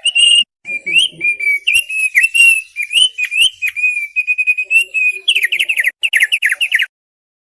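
Thick-billed heleia (opior paruh tebal) singing a fast, continuous run of whistled chirps and warbled notes. Near the end it gives a quick series of falling notes, then stops abruptly.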